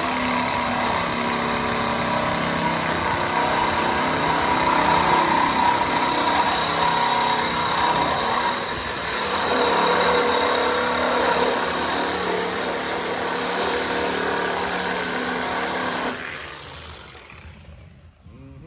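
An electric power tool cuts through a car body's sheet metal without a break for about sixteen seconds, with a steady whine over loud rasping, then stops.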